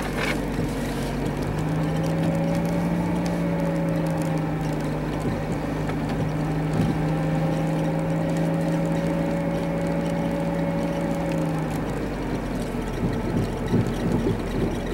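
A car cabin while driving: the engine hums steadily under the rush of the cabin heater fan. About twelve seconds in the steady engine tone drops away and gives way to uneven low rumbling.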